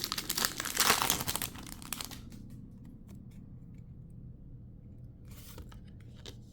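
A mini trading-card booster pack's wrapper being torn open and crinkled, loudest about a second in, then fading to light handling clicks with one more short crinkle about five seconds in.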